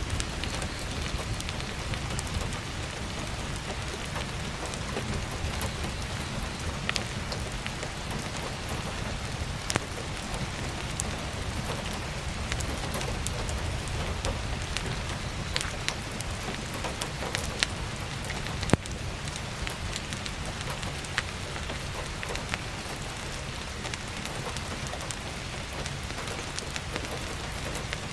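Heavy rain falling steadily, with scattered sharp crackles and pops of burning firewood; the loudest pop comes a little past halfway.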